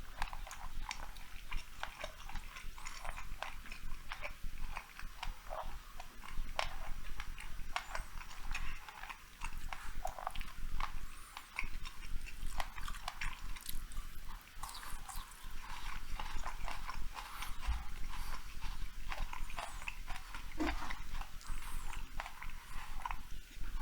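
Close-up chewing and wet mouth sounds of a person eating large sushi rolls: irregular quick smacks and clicks.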